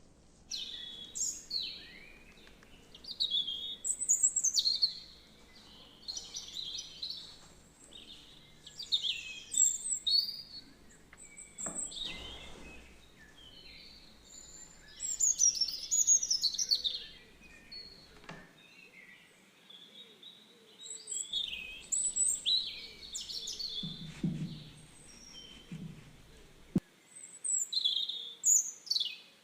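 Small birds chirping and singing: clusters of short, high chirps and quick sweeping notes, one after another, with brief pauses between phrases.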